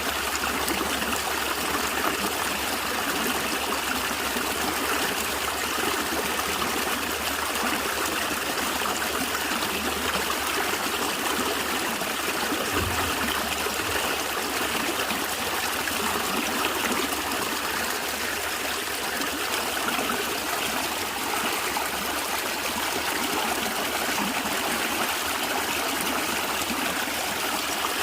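A stream of water flowing and gurgling steadily over stones, a continuous trickling rush with no pauses.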